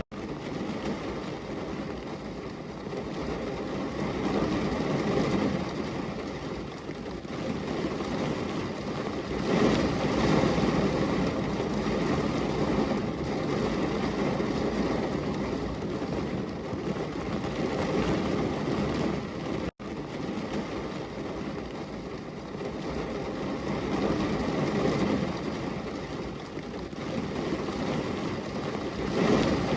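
Steady rain with low rolling thunder that swells up about ten seconds in and again near the end. The sound cuts out for an instant about two-thirds of the way through.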